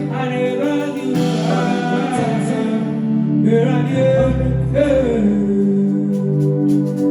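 Live band playing through a PA: guitar over deep bass notes, with a voice singing.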